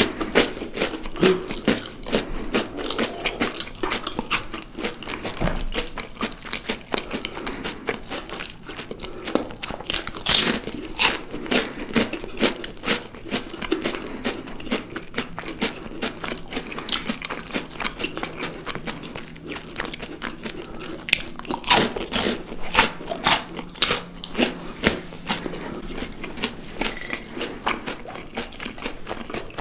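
A person biting and chewing crunchy food close to the microphone: a continuous run of crisp, irregular crunches, with louder clusters of bites around ten seconds in and again past twenty seconds.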